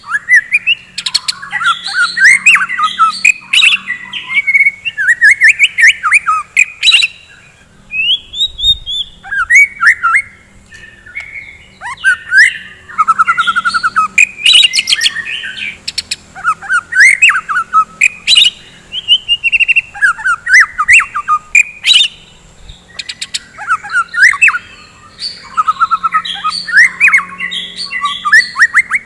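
White-rumped shama (murai batu) singing in full, continuous song: fast, varied phrases of whistles and trills with sharp clicks mixed in, broken only by brief pauses.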